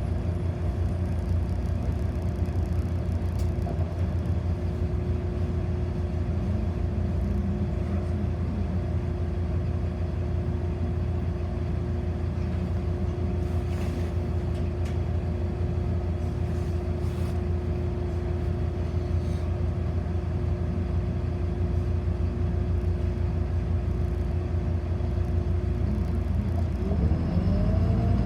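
City bus heard from inside the passenger cabin: a steady low rumble with a constant hum. Near the end a rising whine comes in as the bus speeds up.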